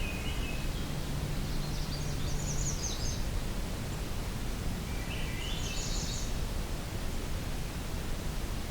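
A songbird sings two short phrases, each a series of notes climbing steeply in pitch, about five seconds apart, over a steady low background rumble of an evening outdoor soundscape.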